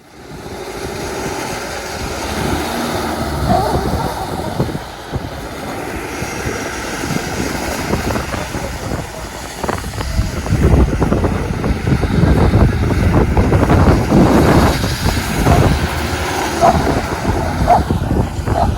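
BMW car on the move: a steady engine and road rumble with rushing noise that grows louder about ten seconds in.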